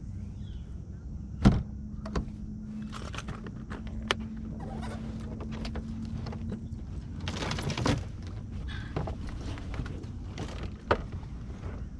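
Steady electric hum, likely a bass boat's trolling motor, that stops about two thirds of the way through. Over it come scattered knocks and thumps on the boat, the loudest a sharp thump about a second and a half in.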